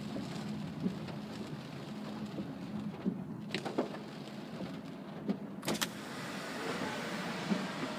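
Heavy rain and road noise heard inside the cabin of a Mazda CX-3 driving on the expressway: a steady rush of rain and tyre spray over a low hum, with a few sharp taps about halfway through.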